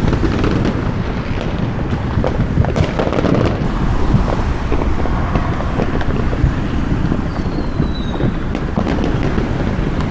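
Many fireworks going off across the city in a continuous crackle of small pops and bangs, with no single loud blast, over a low rumble of wind on the microphone.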